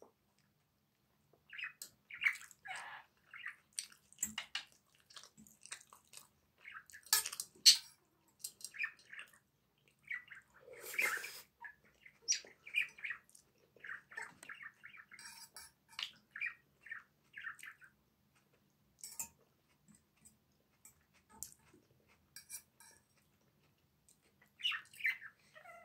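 A small bird chirping in short, scattered calls, with a few sharp clicks in between and a louder noisy sound about eleven seconds in.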